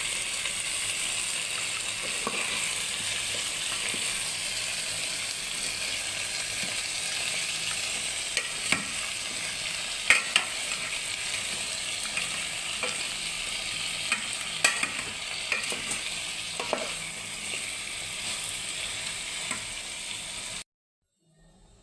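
Food sizzling steadily in hot oil in a pan, with a few sharp clinks of a utensil against the pan as it is stirred. The sound cuts off abruptly near the end.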